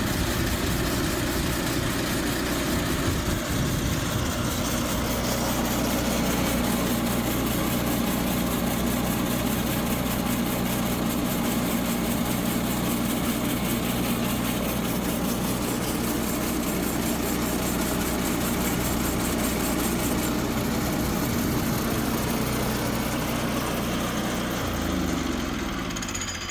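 An engine running steadily for most of the time, then slowing and winding down near the end as it shuts off.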